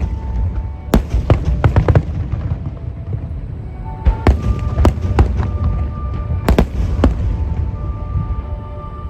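Fireworks shells bursting in clusters of sharp bangs, a quick run of them about a second in, more around four to five seconds and a last pair near seven seconds, over music with held notes.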